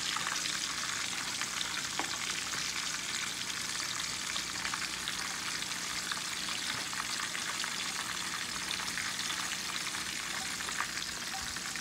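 Pork belly frying in hot oil in a pan covered with a glass lid: a dense, steady sizzle packed with small pops and crackles of spattering oil, easing a little toward the end.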